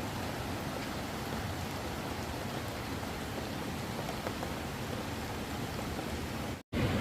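Steady hiss of heavy rain. Near the end the sound cuts out completely for a split second and comes back slightly louder.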